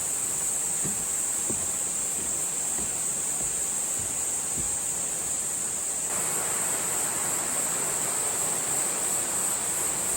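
Steady high-pitched insect chorus over the hiss of a rushing mountain stream. The water grows louder about six seconds in.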